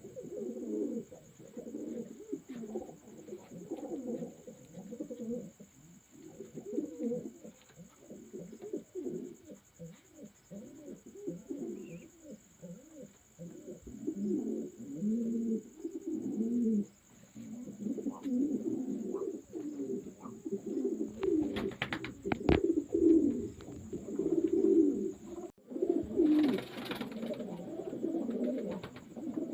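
Many pigeons cooing at once, the coos overlapping without a break. A few sharp clicks come about three quarters of the way through, and a short rustle follows near the end.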